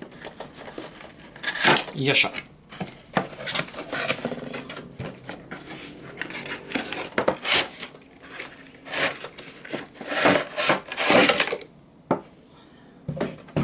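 A toy train's cardboard box and packaging being opened and handled, rustling and knocking in repeated short bursts.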